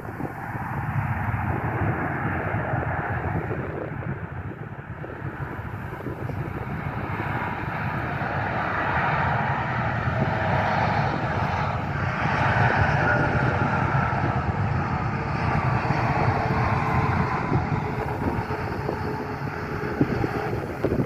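Fixed-wing airplane flying past, its engines giving a steady rumbling roar with a faint whine that slides slowly down in pitch about halfway through.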